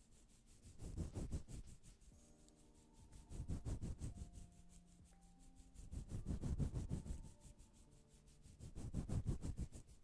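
Rhythmic rubbing or scraping strokes, one swell about every two and a half seconds.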